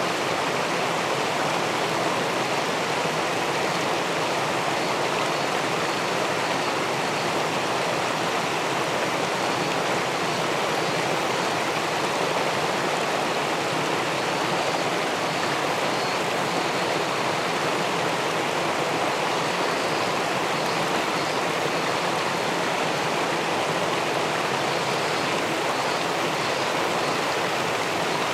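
River water flowing and pouring below a small weir, a steady, unbroken rush.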